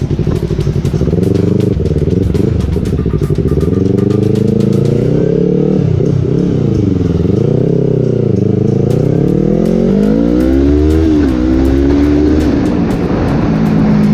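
Yamaha R3's parallel-twin engine running through its freshly repaired silencer, its pitch rising and falling several times as it revs.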